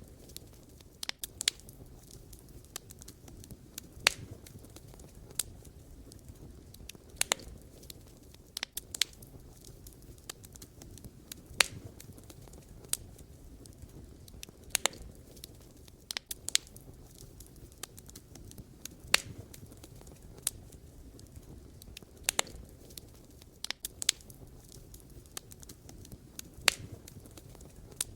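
Wood campfire crackling: sharp pops and snaps at irregular intervals over a steady low rumble of burning logs.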